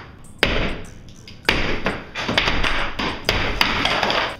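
Demolition hammer blows knocking through a garage wall to open a doorway. There are about six heavy strikes, roughly a second apart, each followed by a short noisy rattle.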